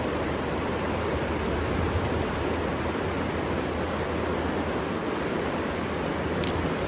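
Steady rush of flowing river water, with a single sharp click near the end.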